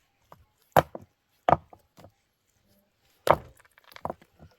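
A blade chopping into wood: four hard strikes at uneven intervals, with lighter knocks between them.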